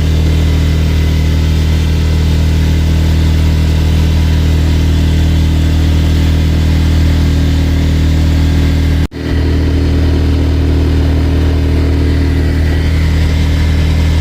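Sailboat's engine running at a steady speed, a loud even low drone that breaks off for an instant about nine seconds in.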